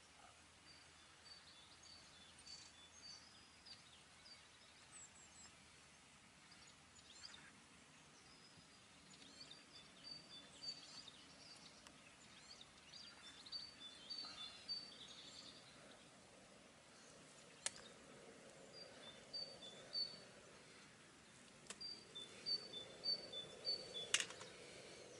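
Faint woodland birdsong: a small songbird repeating a quick high-low two-note phrase over and over. Two sharp clicks of camp utensils come in the second half.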